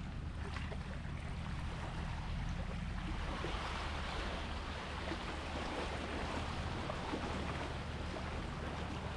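Sea waves washing and surging, swelling to a louder wash about three to five seconds in, over a steady low rumble.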